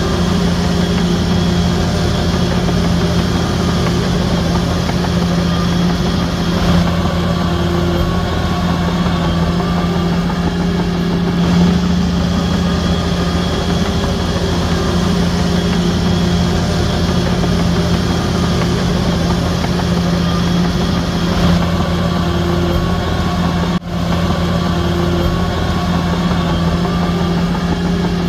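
Large diesel engine of a Shantui DH17C3 crawler bulldozer running steadily with a strong low hum. Its tone shifts abruptly a few times, and it drops out for an instant near the end.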